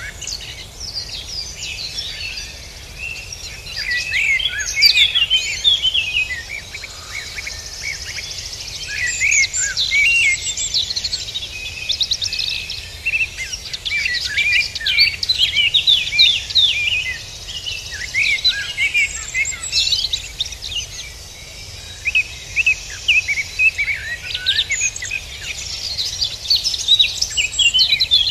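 Songbirds singing, a dense chorus of quick chirps and trills that keeps going throughout, over a steady low background hiss.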